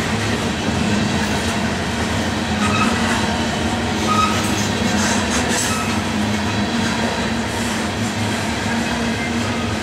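Coal hopper cars of a freight train rolling past on the rails: a steady rumble and rattle of wheels and cars, with a few short, faint squeals about three, four and six seconds in.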